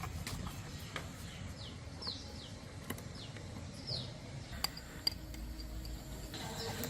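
Small birds chirping, a handful of short falling chirps scattered through, over a low steady rumble, with a few sharp clicks.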